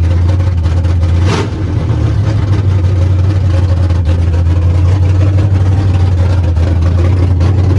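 Chevy C10 race truck's engine idling loud and steady through open headers, with a brief stumble about a second and a half in.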